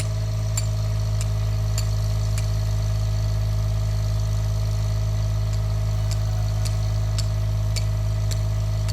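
An engine running steadily at a constant speed, with a faint regular tick a little under twice a second.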